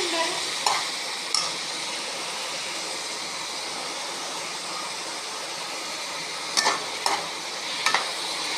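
Onions and chopped tomatoes frying in oil in a pan, a steady sizzle, while a spoon stirs and knocks against the pan a few times, about a second in and again near the end.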